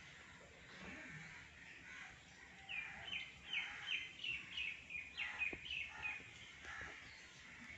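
A bird calling: a run of about a dozen short, falling notes, about three a second, starting a few seconds in, over a faint steady background.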